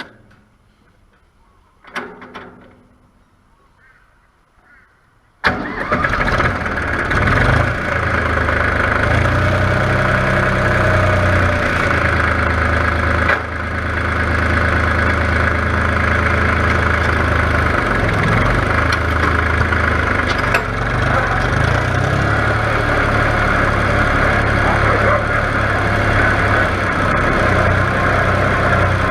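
Farm tractor engine, running on its newly fitted battery, catches about five seconds in and then idles steadily.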